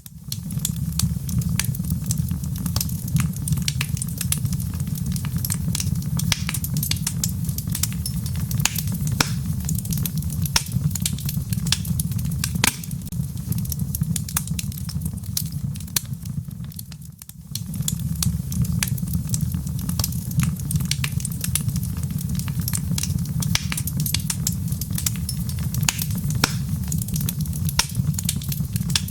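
Wood fire crackling, with a dense, irregular run of sharp pops and snaps over a steady low rumble. About seventeen seconds in, the sound briefly fades almost out, then comes back.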